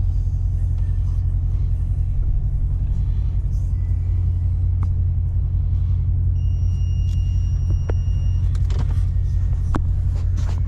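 Steady low rumble of a car, unbroken and even in pitch, with a few faint clicks and a brief thin high beep-like tone lasting about two seconds midway.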